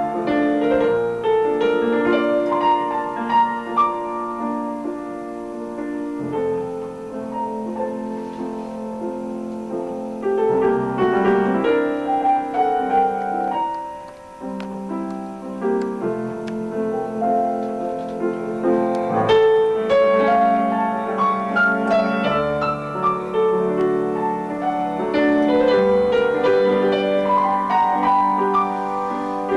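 Piano playing a melody over held chords, with a brief lull about halfway through.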